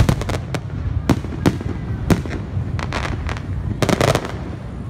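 Aerial fireworks shells bursting: a string of sharp bangs at irregular intervals, the loudest right at the start, with a quick cluster of crackling reports near the end.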